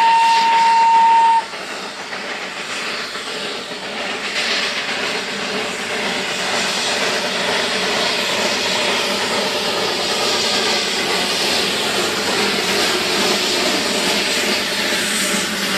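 Darjeeling Himalayan Railway narrow-gauge toy train's whistle on one steady high note, cutting off suddenly about a second and a half in, followed by the steady hissing noise of the train running.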